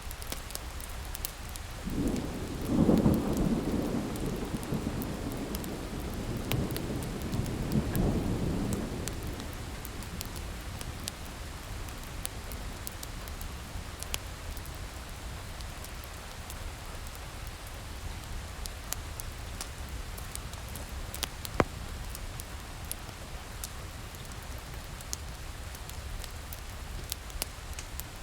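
Steady rain with a long rolling thunder rumble from about two to nine seconds in, over the scattered crackle and pops of a wood fire, one sharp pop standing out near the end.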